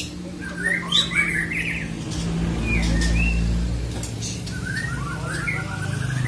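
Murai songbird singing in short bursts of quick chirps and warbling phrases, with a steady low hum beneath and a low rumble swelling in the middle.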